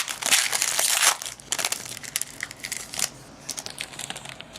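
Foil trading-card pack wrapper torn open and crumpled, with a dense crinkle in the first second or so, then lighter scattered crackles as the wrapper and cards are handled.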